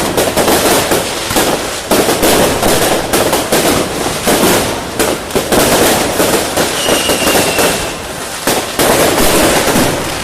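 New Year's fireworks going off without pause: a dense, loud run of bangs and crackling pops, with a brief high whistle about seven seconds in.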